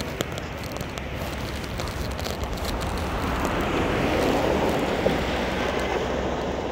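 A vehicle passing on a wet street: the hiss of its tyres swells about three seconds in and fades near the end, over a steady low background rumble.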